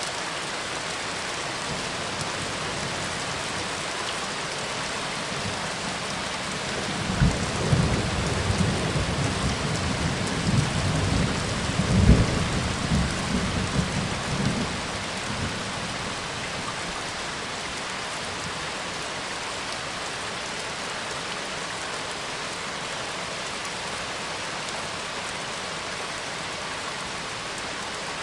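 Steady rain, with a roll of thunder that breaks in about a quarter of the way through, peaks sharply near the middle and rumbles away after several seconds.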